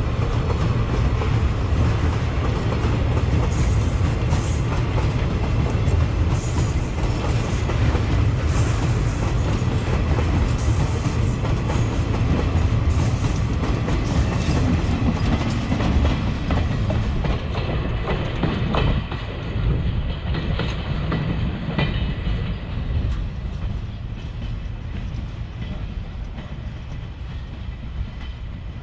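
Freight train rolling over the rails, its wheels clattering over rail joints with scattered sharp metallic clicks and squeaks. It grows quieter over the last several seconds as the train draws away.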